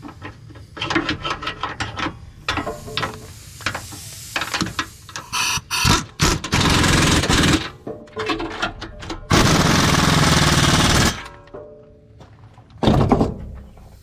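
Impact wrench tightening the suspension bolts on a newly fitted front-end part: a run of light clicks and taps, then two long bursts of the wrench, about one and two seconds long, and a short burst near the end.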